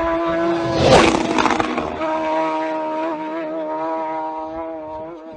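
A motorcycle engine held at high revs with a steady, high-pitched note that dips slightly and wavers after about two seconds, with a brief sharp burst about a second in.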